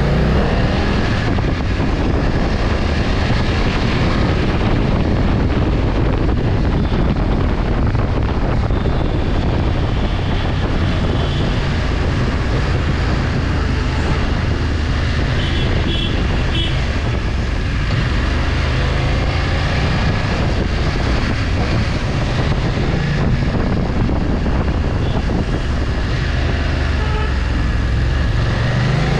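Motorcycle engine running under way during a ride, a steady low drone that shifts as the revs change, with wind rushing over the microphone.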